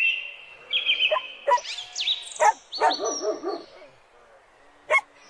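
Puppy whining in high, sliding squeals, then a quick run of yips about two and a half seconds in, fading off; a single sharp click near the end.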